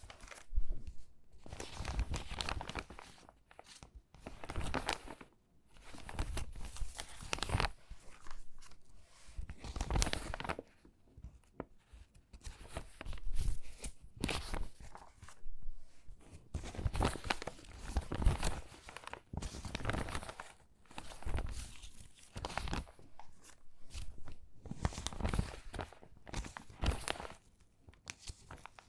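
Stiff, crinkly water-damaged magazine pages being handled and sorted by hand: irregular bursts of crackling and rustling paper, with short pauses between them.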